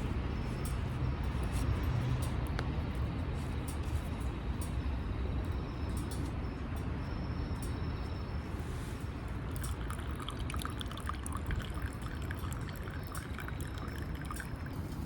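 Wood fire crackling in a Firebox stove, scattered sharp pops over a steady low rumble. From about two-thirds of the way through, liquid trickles and pours.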